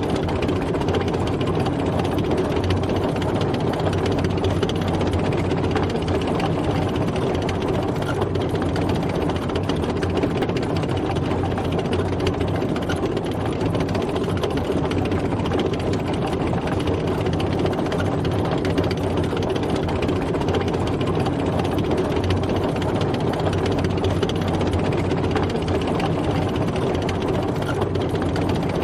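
Tank driving, its heavy engine running steadily at a constant pitch with no change in speed.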